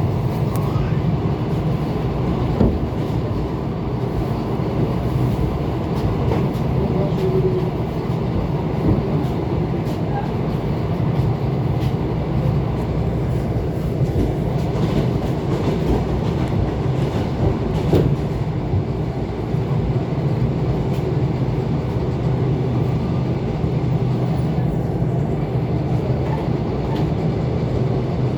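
ET2 electric multiple unit running along the track: a steady rumble and hum, with scattered clicks of the wheels over the rails.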